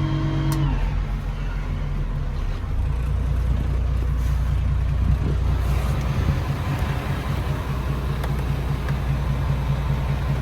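The 7.8-litre Isuzu diesel engine of a 2007 GMC C6500 truck idling steadily. About half a second in, a higher running note slides down and drops away, leaving the low idle.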